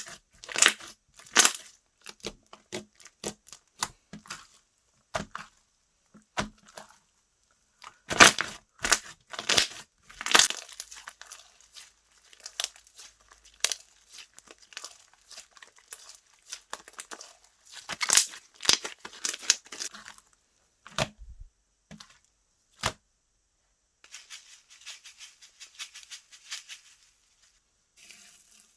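Slime being stretched, squeezed and poked by hand, giving rapid crisp crackles and small pops. They come in dense runs near the start, about a third of the way in and about two-thirds through, with sparser, quieter crackling between.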